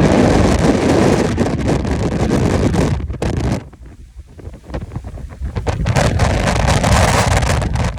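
Strong Santa Ana wind gusting and buffeting the microphone; it eases off suddenly about halfway through, then builds back up.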